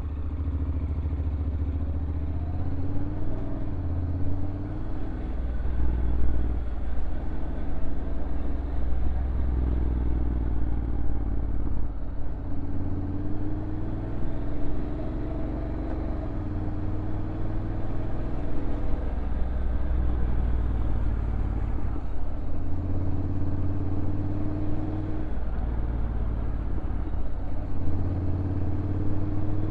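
Honda NC750X DCT's parallel-twin engine on its stock exhaust, running at low revs as the motorcycle rides downhill. The engine note rises and falls back several times.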